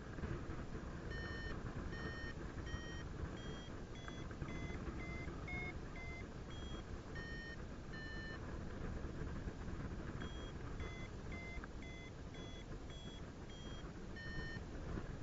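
Paragliding variometer beeping in short electronic tones, quickening and rising in pitch at times, which signals the glider climbing in lift. A steady rush of wind on the microphone runs underneath.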